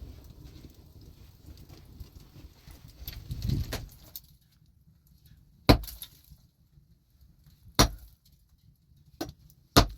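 A low rumbling noise, then four sharp strikes spaced about one to two seconds apart in the second half.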